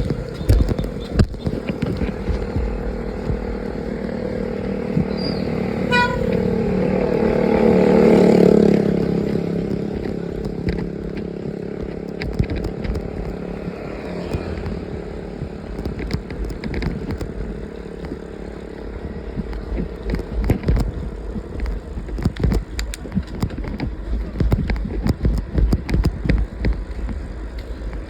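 A motor vehicle's engine running on the move, with a louder vehicle swelling past between about six and nine seconds in and a short horn toot near six seconds. In the second half, frequent knocks and rattles come through over the engine.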